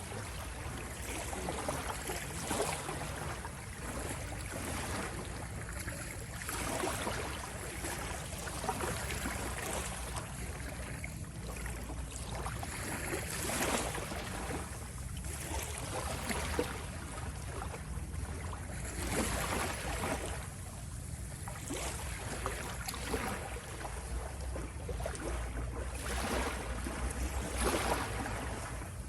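Sea waves washing and splashing in repeated surges every second or few, over a steady low rumble.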